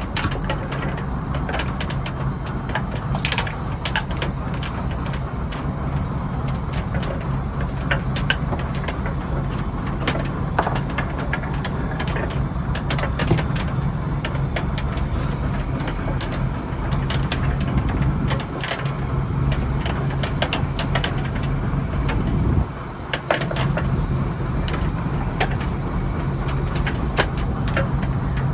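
A fishing trawler's diesel engine running steadily with a low drone, with scattered knocks and clatter on top. The drone dips briefly about two-thirds of the way through.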